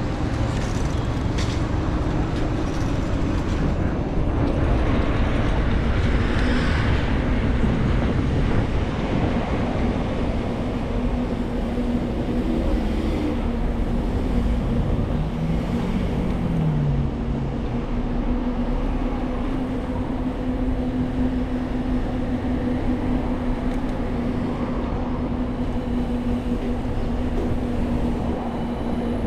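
City street traffic heard from a moving bicycle: a steady rush of road noise under a steady engine hum. Around the middle, a motor's pitch briefly rises and falls.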